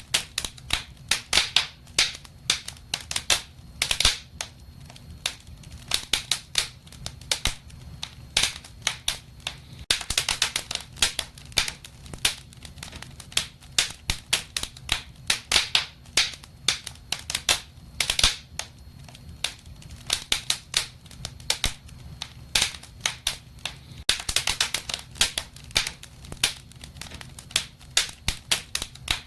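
Wood fire crackling in a fireplace: irregular sharp pops and snaps, denser in a few quick clusters, over a low steady rumble of the flames.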